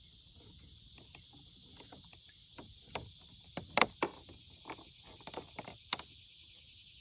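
Irregular knocks and clicks of gear being handled aboard a kayak, the loudest a few knocks near four seconds in, over a steady high hiss.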